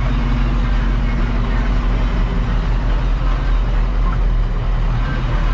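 Farm machinery engine running steadily at constant speed, a low even drone.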